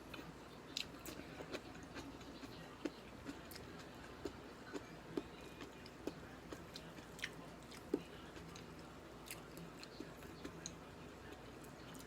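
A person chewing and biting food close to the microphone: irregular small mouth clicks and smacks.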